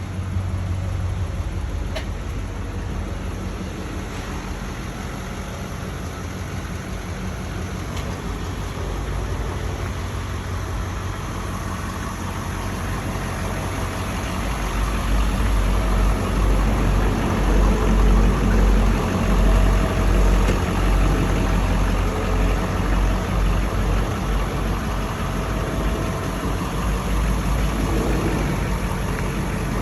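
2012 Ford F550 service truck's engine running at idle, a steady low rumble that grows louder about halfway through.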